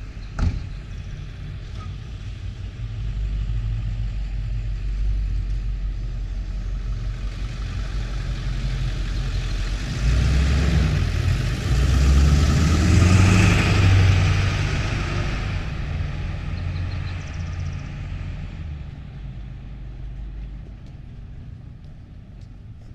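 A motor vehicle driving past close by: engine rumble and tyre noise build up, peak about twelve to fourteen seconds in, then fade away. A single sharp click sounds about half a second in.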